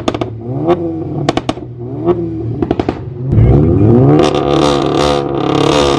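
Straight-piped turbocharged four-cylinder car engine revved in a string of quick blips, each rising and falling, with sharp pops and crackles between them; about three seconds in it is taken up and held at high revs.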